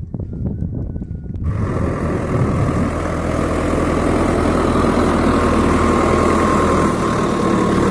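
Diesel tractor engine running steadily. About a second and a half in, the sound turns abruptly louder and brighter and holds steady.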